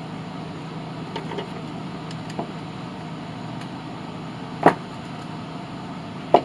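Metal hand tools being handled on a workbench: a few light clicks, then two sharp clanks, one about two-thirds of the way through and one at the end, over a steady low hum.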